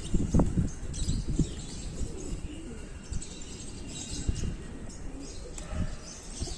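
Pigeons cooing and flapping their wings as they feed, with a few sharp knocks in the first second and a half.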